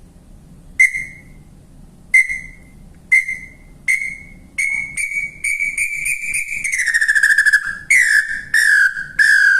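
A wooden Maurílio Coelho birdcall imitating the nhambu-chororó tinamou. It plays loud, high whistled notes that start well apart and come faster until they run together, then drop in pitch into a few lower falling notes.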